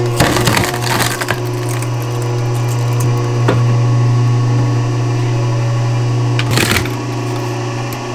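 Oak firewood clattering and cracking as pieces knock together, in a cluster of sharp knocks early on, a single knock midway and another cluster near the end, over a steady low hum.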